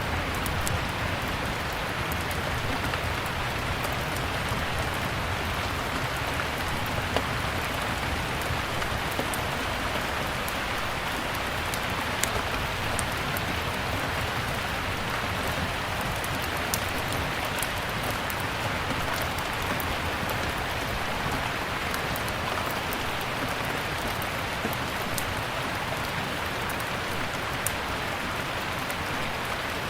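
Steady rain hissing, mixed with a crackling wood fire whose scattered sharp pops stand out over the even rush.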